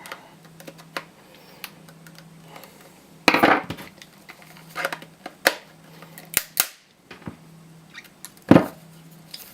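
Irregular clicks and sharp knocks of an IBM ThinkPad laptop battery pack's plastic case being handled and worked at to get it open. The loudest knocks come about three seconds in and again near the end.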